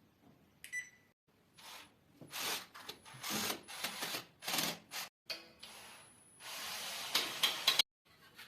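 Drywall work on a window reveal: a run of short scraping and rasping strokes with sharp clicks, broken into separate bursts by abrupt cuts. A brief high tone sounds just before a second in.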